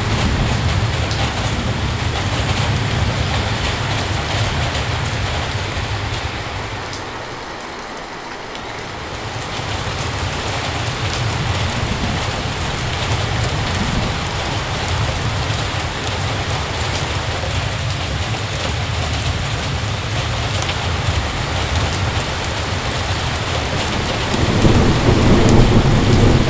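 Heavy rain falling steadily, with rolling thunder underneath. The low rumble eases off for a moment about a quarter of the way through, comes back, and swells again near the end.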